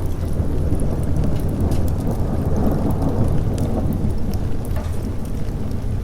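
A long, low rumble of rolling thunder that swells through the middle and eases near the end, over steady rain, with scattered sharp crackles throughout.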